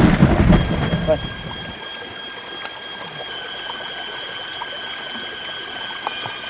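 A loud thunder rumble dies away over the first couple of seconds. It leaves several steady high-pitched tones that come in one after another and hold.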